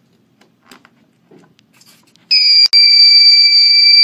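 Locator buzzer from a balloon payload switched on a little over two seconds in, giving a loud, steady, high-pitched electronic tone that cuts out for a moment just after it starts and then holds. It runs on 3 volts.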